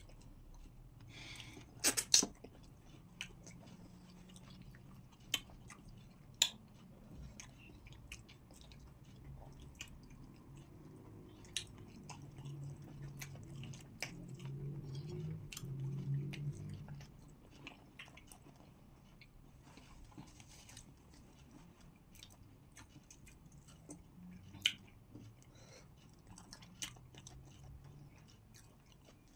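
A person chewing pounded yam and slippery okra soup, eaten by hand, with many sharp wet mouth clicks and smacks scattered throughout. A louder, low-pitched sound swells for a few seconds around the middle.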